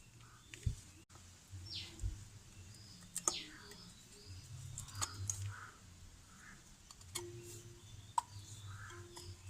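Birds chirping in the background, with a few sharp clicks and knocks and a faint low hum coming and going.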